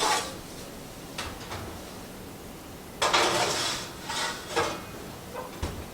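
Kitchen handling sounds: dishes and a pan being knocked and moved, with a short rattling scrape about three seconds in and a low thump near the end.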